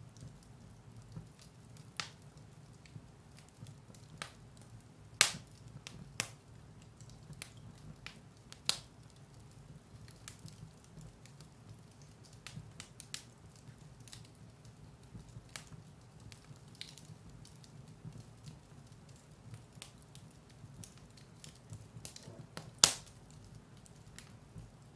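Firewood burning in a fireplace: a low steady hiss of the flames with scattered small crackles and a few sharp pops, the loudest about five seconds in and near the end.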